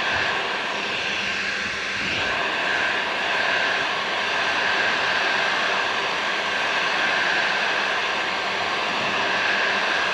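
Heat gun running steadily, a constant blowing hiss with a fan whine, heating plastic pieces to melt them together for a hull patch.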